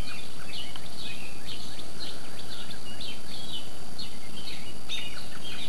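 Small songbirds chirping over and over in short, quick calls, several a second, over a steady background hiss.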